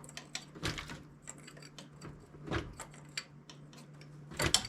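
Irregular metal clinks and knocks of hand tools and sockets working on bolts in a car's engine bay, with a cluster of louder knocks near the end, over a faint steady low hum.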